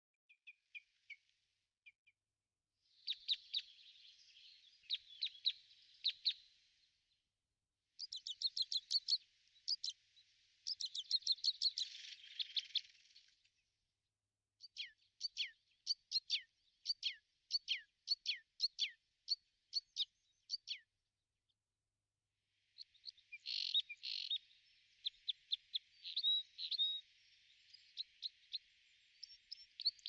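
Bird chirping in bouts of rapid, short, high-pitched notes, several a second, with brief pauses between bouts.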